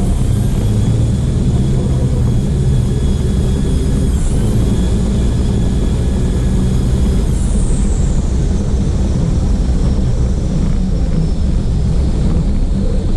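Racing truck's diesel engine running hard, picked up by an onboard camera, a heavy steady drone. A thin high whistle over it dips briefly about four seconds in and slides down in pitch after about seven seconds.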